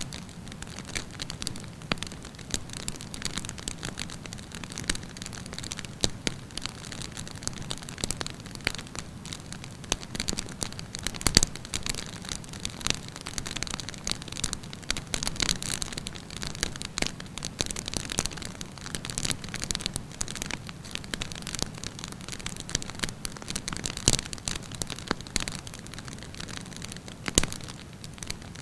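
Wood campfire burning, with dense irregular crackling and sharp pops over a steady hiss of flame; one louder pop comes about eleven seconds in.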